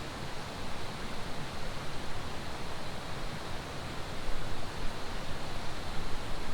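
Steady rush of running water, with wind rumbling on the microphone that grows stronger about four seconds in.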